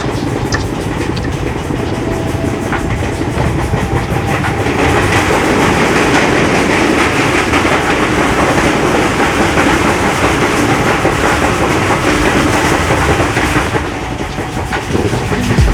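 Sea waves breaking and washing up the beach. The surge swells about five seconds in and eases off again near the end.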